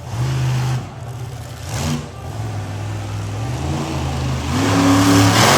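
Monster truck engine revving hard in repeated surges, its pitch rising and falling, with the loudest, highest rev near the end.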